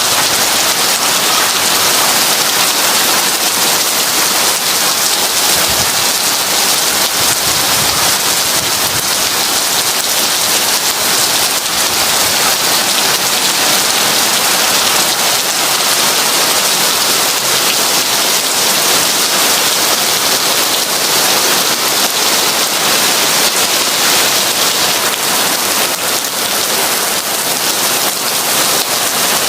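Heavy rain falling steadily, a dense, even hiss of drops without letup.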